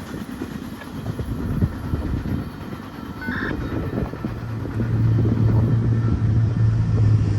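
A passing train rumbling over the rails; about halfway through, a steady low engine drone comes in and grows louder.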